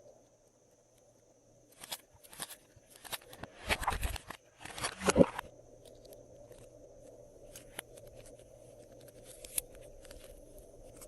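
Slime being mixed and worked by hand, with a run of sticky crackling and crunching between about two and five seconds in, then lighter scattered clicks.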